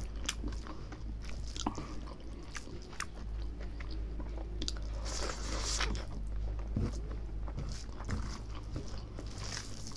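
Close-miked chewing and mouth-smacking as rice and mithun skin curry are eaten by hand, with many small wet clicks and a longer hissing sound about five seconds in.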